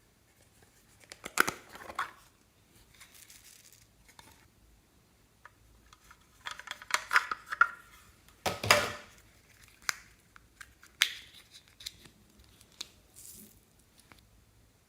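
Slime and plastic piping bags being handled, giving short bursts of crinkling and tearing-like sound with a few sharp clicks. The loudest burst comes about eight and a half seconds in.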